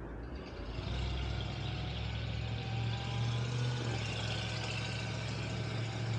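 A motor vehicle's engine running, a steady low hum with a hiss above it that sets in about a second in and cuts off right at the end.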